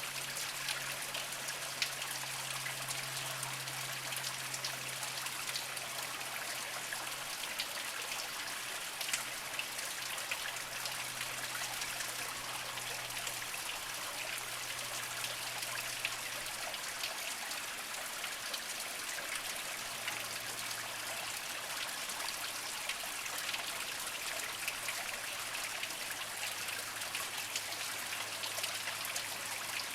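Small mountain spring trickling slowly over mossy rocks: a steady water trickle dotted with many tiny drips and splashes.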